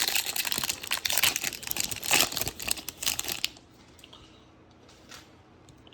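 Plastic trading-card pack wrapper crinkling and tearing as it is opened, for about three and a half seconds.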